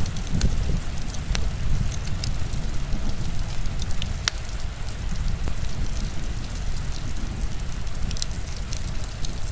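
Heavy rain with a deep, steady rumble under its hiss, and a wood fire crackling with scattered sharp pops.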